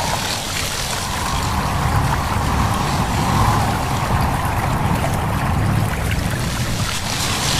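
A stream babbling steadily over a continuous low wind rumble, with rustling leaves swelling in the high hiss now and then.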